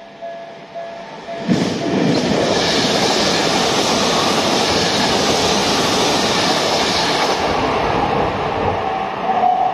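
A level-crossing warning bell rings with a steady repeating tone. About a second and a half in it is swamped by a commuter train passing at speed, its wheels clacking over the rail joints. The train's noise eases near the end and the crossing bell is heard ringing clearly again.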